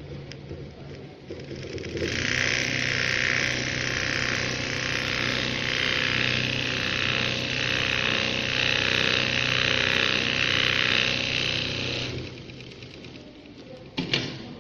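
Electric sewing machine running steadily for about ten seconds, then stopping, with a sharp click near the end.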